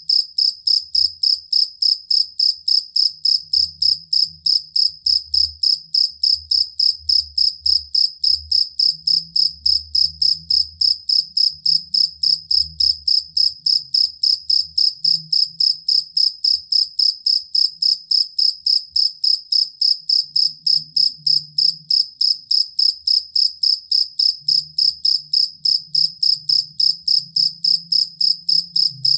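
Two-spotted field cricket (jangkrik kalung) chirping in an even, unbroken rhythm of about three and a half high-pitched chirps a second.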